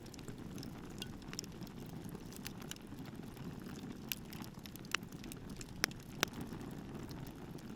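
Wood fire burning with a steady low rumble, and scattered sharp crackles and pops from the burning wood, a few louder pops around five to six seconds in.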